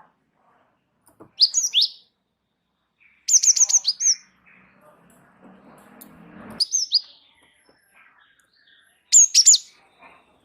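Gelatik wingko songbird calling in four short bursts of sharp, high falling notes, a couple of seconds apart; the second burst is a quick run of about five notes.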